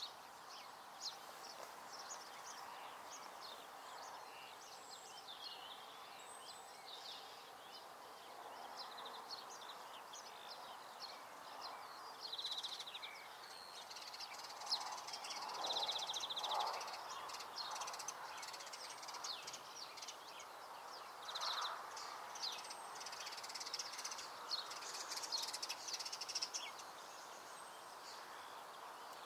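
Many small songbirds chirping and trilling in a dawn chorus, with a few rapid trills, over a steady background hiss. The calls grow busier around the middle.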